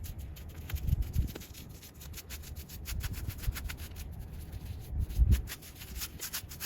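Paintbrush strokes scrubbing paint onto rough tree bark: repeated short, scratchy rubbing strokes, with low bumps about a second in and again about five seconds in.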